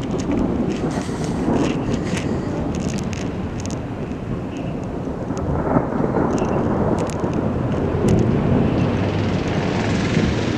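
Thunder rumbling in slow, rolling swells from a lightning storm, over a steady low rush of wind, with scattered faint ticks.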